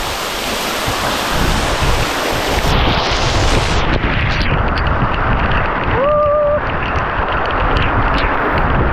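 Waterfall pouring into a pool: a loud, steady rush of water with heavy low buffeting on the microphone. A short, high pitched tone sounds briefly about six seconds in.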